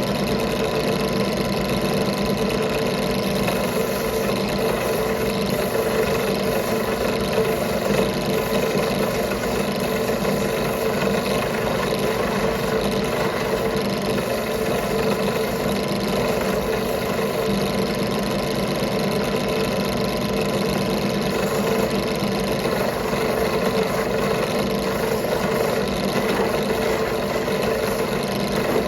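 A power tool's motor running steadily while cleaning up freshly cast copper pieces, with a constant hum and whine over a rough hiss.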